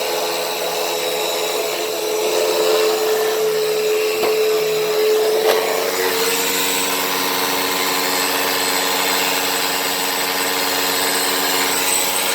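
Hoover WindTunnel T-Series upright vacuum running steadily on carpet: a constant motor whine over rushing air hiss. A single sharp click comes about five and a half seconds in.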